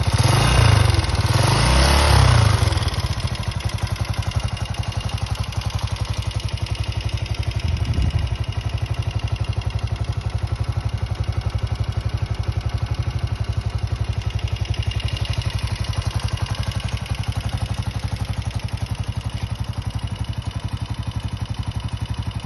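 Honda CG125's single-cylinder four-stroke engine revved a few times, then settling to a steady idle. There is a short blip of the throttle about eight seconds in.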